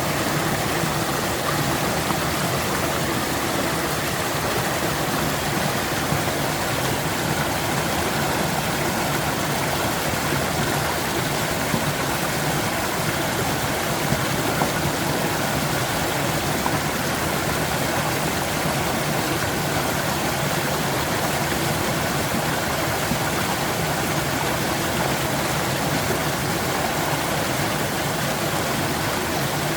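Stream water flowing, a steady, unbroken rush of water.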